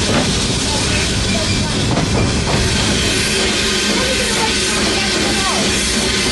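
Rumble and rattle of a steam-hauled railway carriage running along the track. About two seconds in it gives way to background music with held notes.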